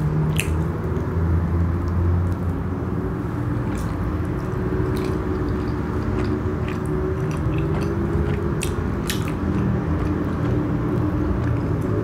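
Close-miked chewing of soft naan bread with a chocolate filling, with wet mouth sounds and short sharp clicks here and there over a steady low hum.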